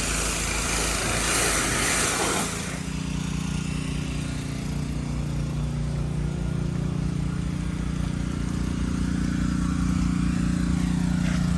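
1988 Nissan 300ZX (Z31) engine running. A rushing noise sits on it for the first two and a half seconds, then it settles into a steady idle.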